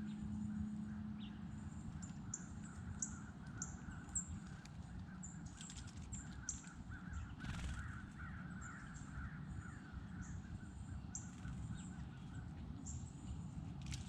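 Wild birds calling: many short, high chirps repeating throughout, with a harsher rough calling in the middle, over a steady low background rumble.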